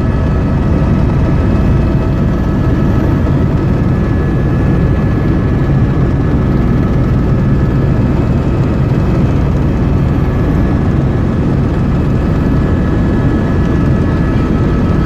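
Helicopter in flight heard from inside the cabin: a steady, loud drone of engine and rotor with a constant high whine over it.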